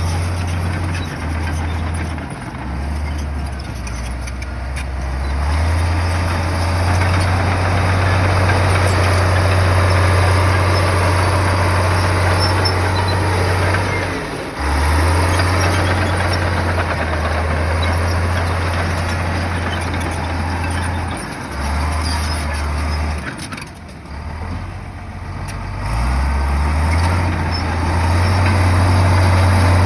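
Heavy earthmoving machine's diesel engine working, its low drone stepping up and down in pitch. It drops away briefly twice, about halfway through and again about four-fifths of the way through.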